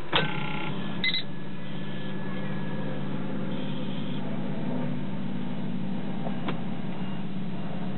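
Nissan Sunny B110 with its ignition switched on and the engine not yet running: a steady electrical hum, with a click and short electronic beeps near the start as the added tachometer and gauges run their opening sweep.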